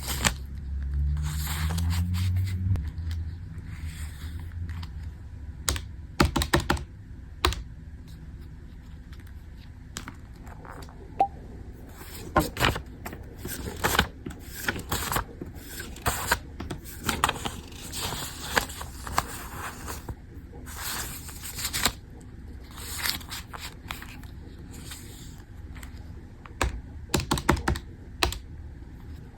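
Typing on a keyboard: irregular bursts of key clicks with short pauses between them. A low hum rises in pitch during the first few seconds.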